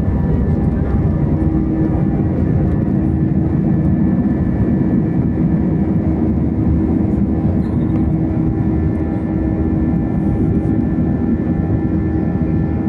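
Airbus A320 jet engines running at high takeoff power: a loud, steady rumble with a steady engine tone through it.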